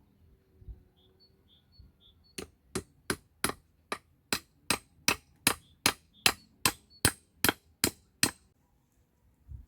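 Hammer strikes in a steady run of about sixteen sharp blows, about two and a half a second, starting a couple of seconds in and stopping shortly before the end, typical of driving a nail into wood.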